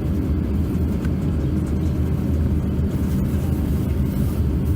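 Steady low rumble of airliner cabin noise in an Airbus A350-900 on the ground before takeoff, with its Rolls-Royce Trent XWB engines running at idle.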